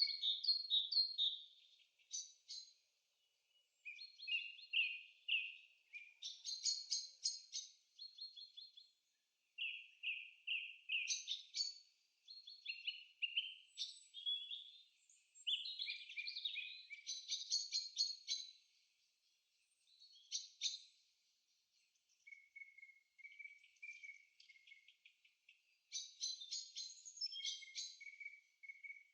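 Songbirds singing: phrases of quick, high chirps and rapid trills a second or two long, broken by short pauses, with no background noise under them.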